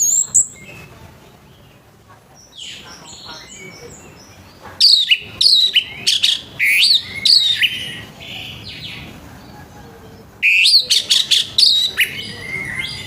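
Orange-headed thrush singing loud phrases of sharp whistled notes that slide up and down in pitch, in two bursts: one about five seconds in and another about ten seconds in, with a short call at the very start.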